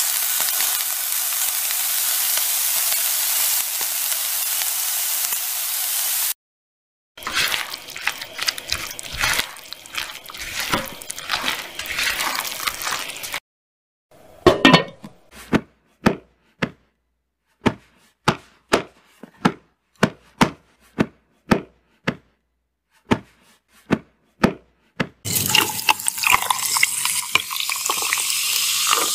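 Kitchen cooking sounds. First a steady sizzle of food frying, then a stretch of utensil clatter and stirring. After that comes a run of evenly spaced knocks, about two a second. Near the end a fizzy drink is poured and fizzes with a steady hiss.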